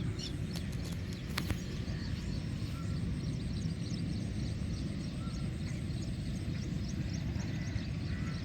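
Lakeside ambience: many small birds chirping in short, high calls over a steady low rumble, with a few sharp clicks about a second in.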